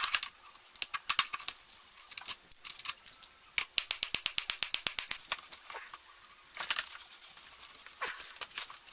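Hand socket ratchet clicking in quick runs, with metal tool clinks between, as fasteners are worked loose on a dirt bike's rear wheel and chain.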